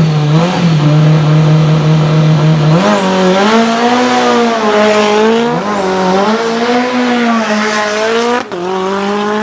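Lancia Delta HF Integrale hillclimb race car's turbocharged four-cylinder engine running hard. It holds steady revs at first, then climbs higher with a wavering pitch and a high rising whistle, twice. A brief sharp break about eight and a half seconds in, like a gear change.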